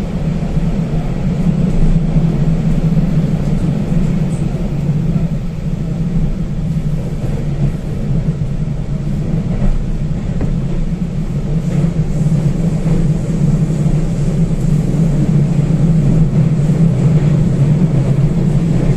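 A train running: a loud, steady low rumble that holds without a break.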